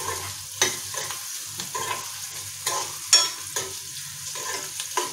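Sliced onions and garlic cloves sizzling in hot oil in a pan while a metal spoon stirs them, its edge knocking and scraping against the pan at an irregular pace, about once or twice a second.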